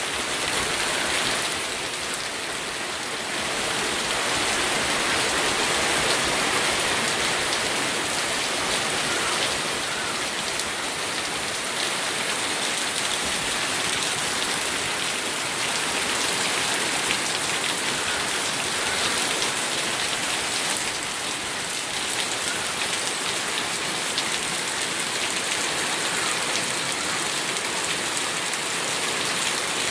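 Steady rainfall: an even hiss of rain with many small drop patters on a surface.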